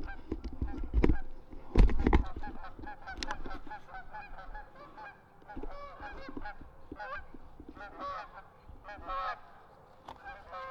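A large flock of Canada geese honking, many overlapping calls throughout. A few loud thumps come in the first two seconds.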